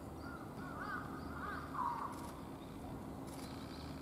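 A bird calling outdoors: a quick series of short rising-and-falling notes, the loudest about two seconds in.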